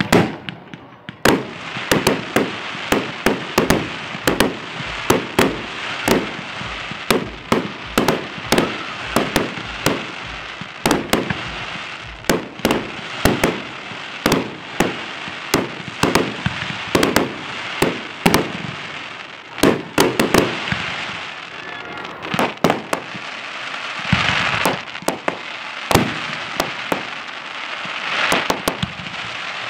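Aerial fireworks: a rapid string of shell bursts, about two bangs a second, over a steady crackle, with denser crackling in the last third.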